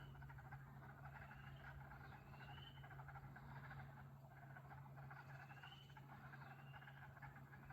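A faint chorus of frogs calling: a dense pulsing trill with short rising chirps that repeat every second or two. A steady low hum runs underneath.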